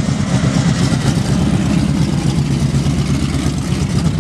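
A car engine idling loudly through its exhaust: a steady, choppy low note.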